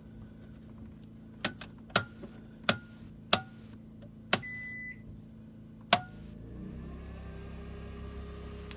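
Circuit breakers in a camper's panel being switched on: six sharp clicks over about four and a half seconds, with a short electronic beep among them. About two-thirds of the way in, a steady low hum swells as the load comes on, the Westinghouse iGen2500 inverter generator powering up slightly.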